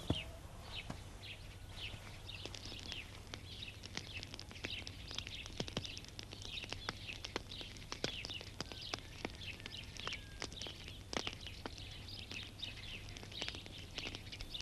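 Faint chirping of small birds, many short calls in a busy, unbroken run, over a low steady hum.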